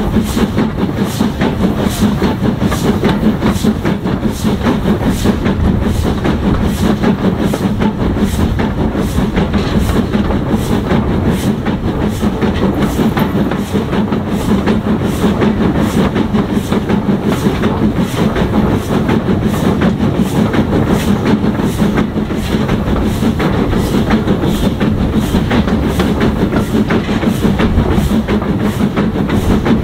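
Train running steadily on rails: a continuous rumble of wheels on track with a regular clicking about twice a second, heard from on board.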